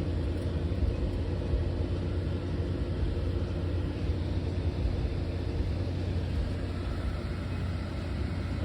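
A car's engine running with a steady low rumble, heard from inside the cabin.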